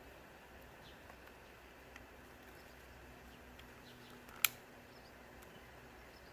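Quiet background with a few faint, high chirps and one sharp click about four and a half seconds in.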